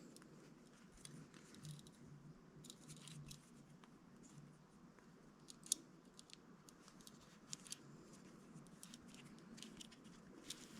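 Near silence, with faint scattered small clicks and ticks and one sharper click a little past halfway.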